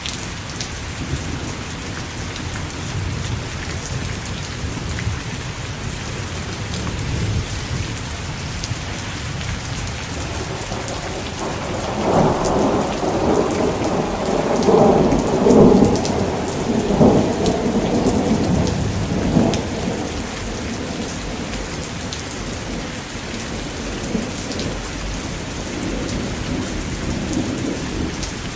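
Steady rain with scattered sharp ticks, and a long roll of thunder that swells in about twelve seconds in, peaks near the middle and dies away about eight seconds later.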